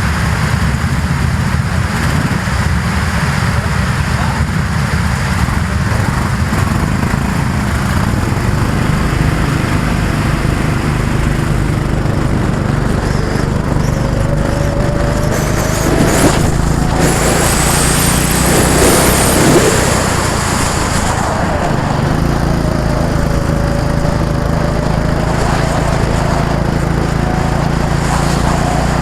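Small go-kart engines running on a kart track, a steady engine drone throughout. About 16 seconds in, a kart passes close and louder, its engine note gliding up and down, then fades back into the general drone.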